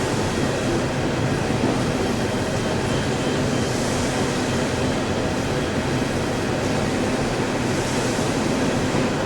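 CSX freight train rolling past, its cars' wheels on the rails making a steady rumble.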